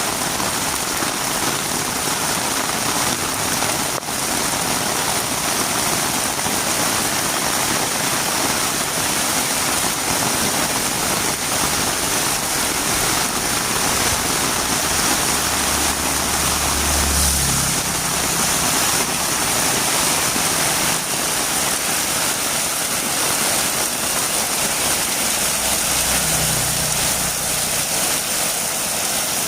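Heavy rain falling steadily, a dense even hiss. A low hum rises under it twice, once about halfway through and again near the end.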